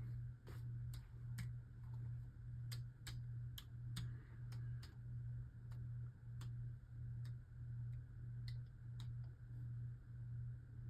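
Faint, irregular sharp clicks over a low hum that pulses evenly, about two or three times a second.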